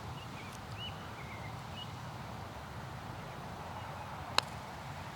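Quiet open-air background with a few faint bird chirps, then a single sharp click about four seconds in: a golf ball dropping into the cup on a holed putt.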